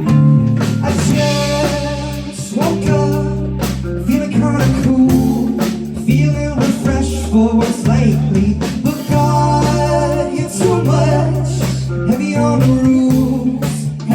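A live band playing a song: guitar over a bass line and a drum kit keeping a steady beat.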